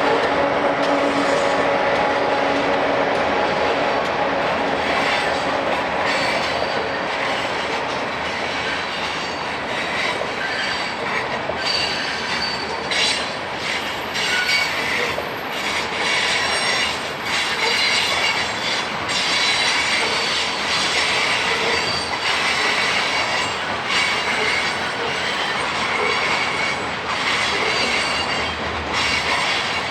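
Freight train of tank cars rolling past, its wheels clacking over rail joints with intermittent high wheel squeal. A steady locomotive engine drone fades out over the first several seconds.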